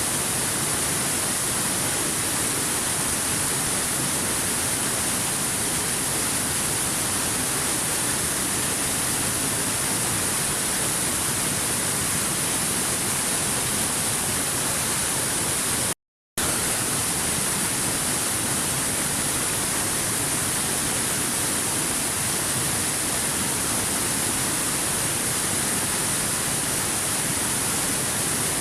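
Waterfall: a steady rush of falling water with a bright hiss. It cuts out completely for a split second about halfway through, then resumes unchanged.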